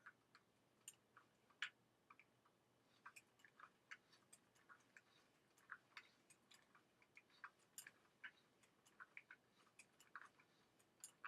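Faint, irregular small clicks and ticks from the mechanism of a mechanical flying-bird automaton as it runs.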